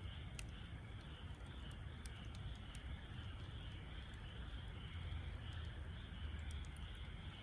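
Wood fire crackling in a Snow Peak fire pit, a few sharp pops over a low rumble, with a steady pulsing chirr of insects about twice a second.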